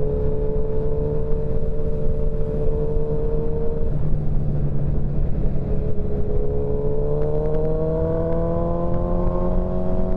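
Motorcycle engine heard from the rider's own bike while riding, with wind rumble on the microphone. The engine note holds steady, drops about four seconds in, then climbs steadily as the bike accelerates.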